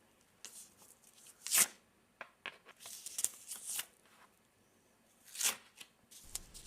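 Paper notes being peeled, torn and handled: scattered short rustling and tearing sounds, the loudest about a second and a half in and another near the end.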